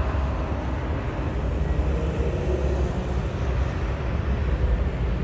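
Jet airliner on landing, a steady rumble of its engines.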